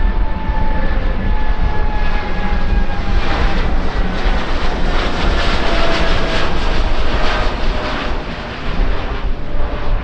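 Jet airliner's engines passing by: a rumbling roar with a whine that falls slowly in pitch, loudest around the middle and easing near the end.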